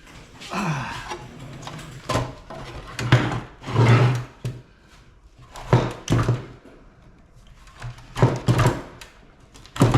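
Irregular clunks and rattles of scrap metal and cut wire being handled, about half a dozen knocks a second or two apart, the heaviest about four seconds in.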